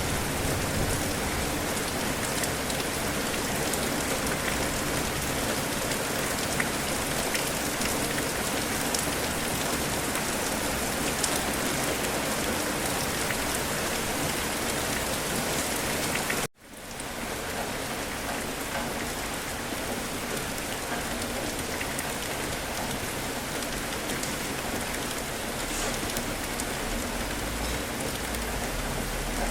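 Steady rain falling on a surface: an even hiss with scattered drop ticks. It cuts out abruptly for an instant about halfway through, then resumes a little quieter.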